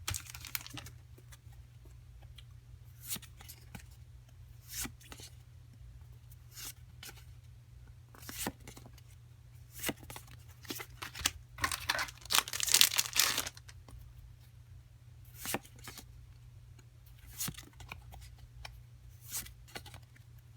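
Foil booster packs of Pokémon cards being torn open and crinkled, in short scattered rips with a longer, louder tear about twelve seconds in, over a steady low hum.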